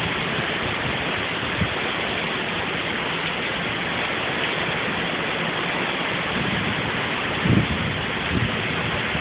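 Heavy rain falling steadily, a dense even hiss, with a few brief low buffets about three-quarters of the way through.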